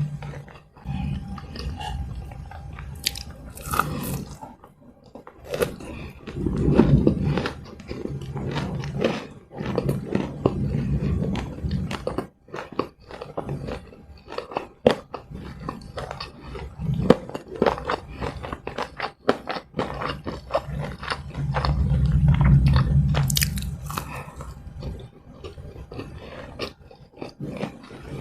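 Close-miked chewing and crunching of fried snacks: many sharp crunches throughout, with deep, muffled stretches of chewing twice along the way.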